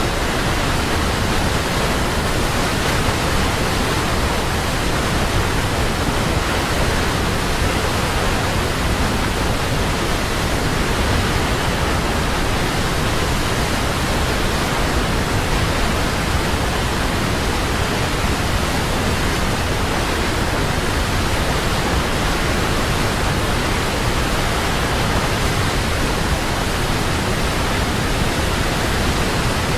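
Large waterfall pouring: a loud, steady rush of falling water that does not change.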